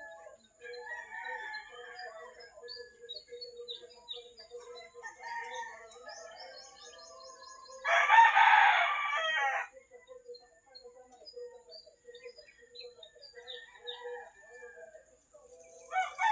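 A rooster crows once, loudly, about halfway through, over scattered small-bird chirping and a steady high-pitched hum.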